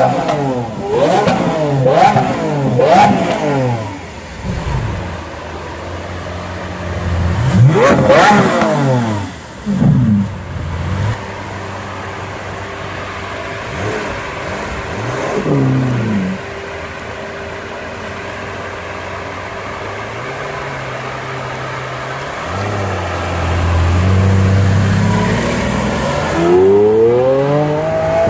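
Lamborghini Aventador's V12 engine revved in quick blips, about four in the first few seconds and a bigger one later, falling back to idle between them. Near the end the car pulls away, its engine note rising as it accelerates.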